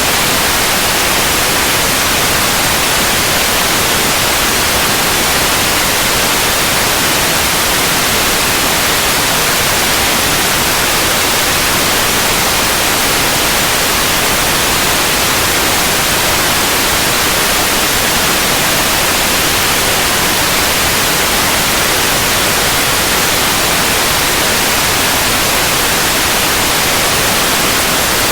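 Steady white noise: an even, unbroken hiss spread across the whole range of pitch, with no change in level.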